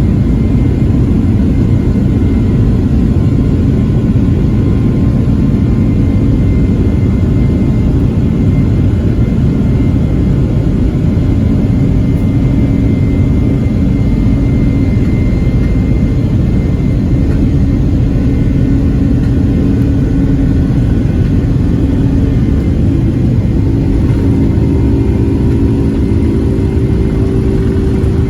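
Boeing 767-300ER jet engines and airflow heard from inside the passenger cabin: a loud, steady rumble with a faint steady whine above it. A steady low hum joins in near the end.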